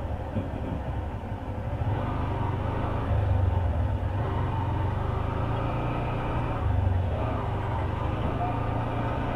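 Honda CB Hornet 160R motorcycle running at riding speed over a broken road, heard as a steady low rumble with road and wind noise that grows a little louder about two seconds in.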